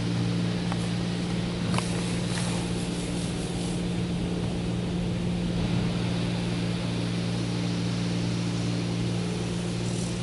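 Mark VII ChoiceWash XT touchless car wash running, heard from inside the car: a steady hiss of water jets hitting the car body over a steady low machine hum.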